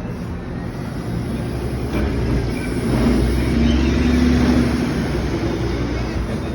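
City bus running, its rumble swelling louder for a couple of seconds in the middle, then easing off.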